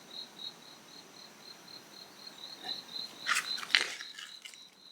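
An insect chirping in a steady high-pitched pulsing trill, about four chirps a second. A little over three seconds in, a brief burst of rustling and clicks stands out as the loudest sound.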